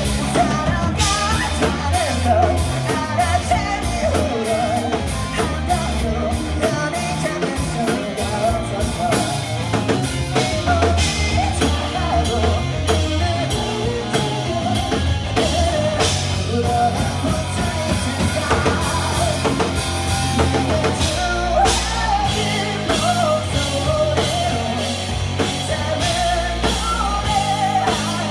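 Rock band playing a song live, with a singer's vocal over a driving drum kit and band.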